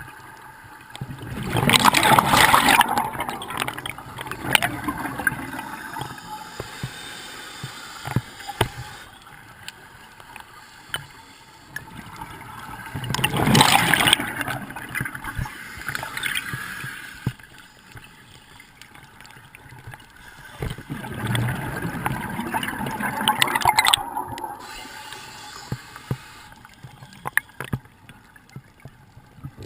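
Bubbles from a scuba diver's regulator, heard underwater, as the diver breathes out: three long bursts about ten seconds apart, with quieter water noise between them.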